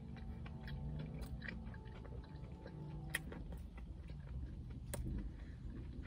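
A person chewing a mouthful of food with the mouth closed: many small soft wet clicks and crunches. A low steady hum comes and goes underneath.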